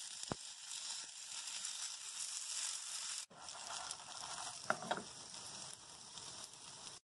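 Slices of taro cake sizzling steadily as they pan-fry in oil in a nonstick frying pan, with a sharp click just after the start and a few light knocks about five seconds in.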